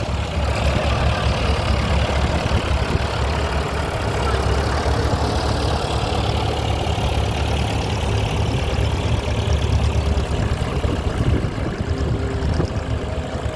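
Vintage tractor engine running steadily at idle, a low even beat.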